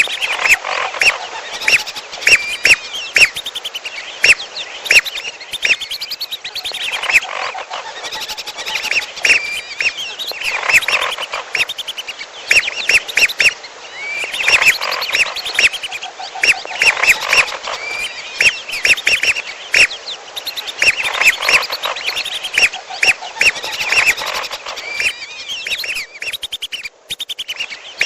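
Bird-lure call track of whistling ducks (belibis) mixed with another bird's calls: a dense, continuous chorus of short, high whistling calls in quick clusters.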